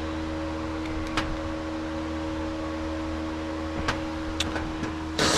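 A steady mechanical hum with a few light clicks from small parts or hand tools being handled. A loud hiss starts near the end.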